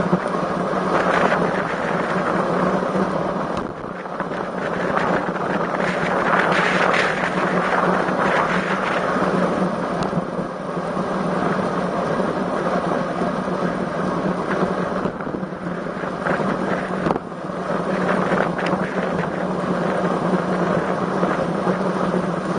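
Strong wind rushing over a camera microphone during a road-cycling ride, a steady noise that swells and briefly dips twice.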